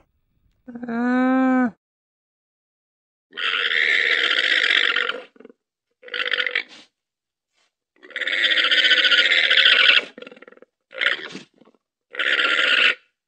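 Llama calling: a short hum that rises and falls in pitch about a second in, then a series of harsh, noisy calls of different lengths, the longest about two seconds, with silent gaps between them.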